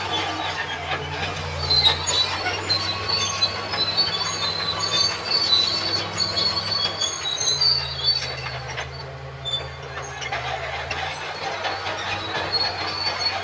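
Crawler bulldozer at work: diesel engine running, with its steel tracks squealing and clanking as it moves. The engine note shifts about halfway through.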